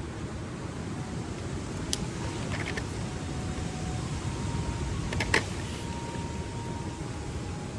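Wood campfire burning with a steady low rush, and a few sharp pops from the burning wood: one about two seconds in and a louder one a little past five seconds.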